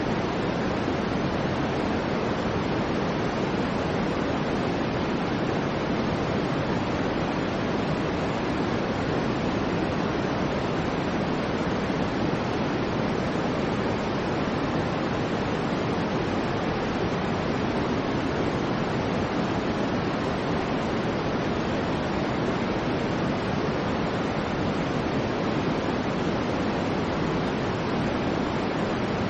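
Steady soft white noise, a constant even hiss weighted toward the low and middle range and tapering off in the highs, without change or rhythm.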